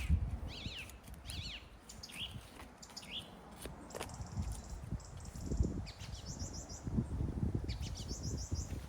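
Songbirds chirping and singing: short repeated sweeping notes in the first couple of seconds, then fast buzzy trills later on. Low rustling and thudding noises come and go underneath, heavier in the second half.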